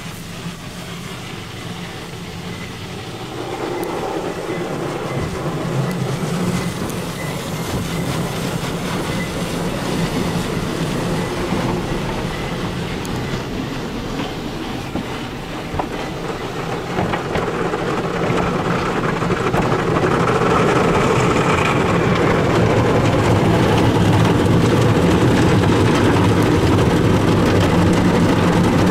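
Conveyor tunnel car wash working over a truck, heard from inside the cab: steady noise of the wash equipment and water on the body, growing louder over the first twenty seconds and then holding.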